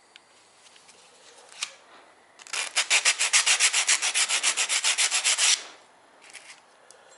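Quick back-and-forth sanding strokes on a metal RC boat propeller blade, about nine strokes a second for some three seconds, with a few lighter single strokes just before and after.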